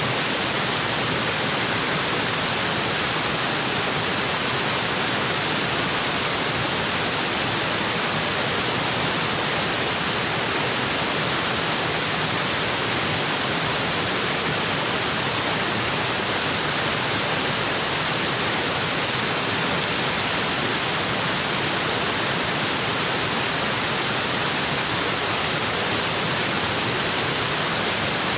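Waterfall in a tropical forest, its water pouring onto rocks in a dense, steady rush with a hissy, bright edge.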